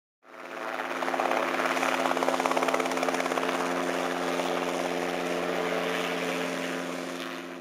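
Robinson R22 helicopter running, its four-cylinder Lycoming O-320 engine and rotor making a steady, fast, even chop. The sound fades in just after the start and fades out near the end.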